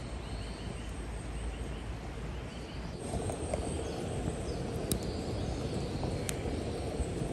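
Outdoor ambience: a steady background rumble with small birds chirping in short quick series, and a couple of sharp clicks a little past halfway.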